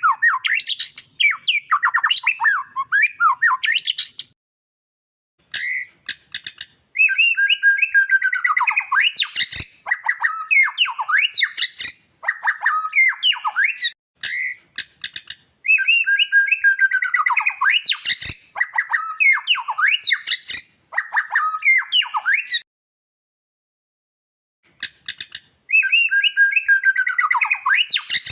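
White-rumped shama (murai batu) singing: a loud, fast run of varied whistles and chattering notes, the same long phrase repeated three times with short pauses between.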